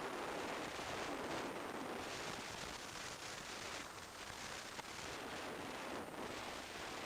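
Steady wind rush buffeting the camera microphone on a Kawasaki Z1000SX motorcycle riding at speed, with road and engine noise mixed in.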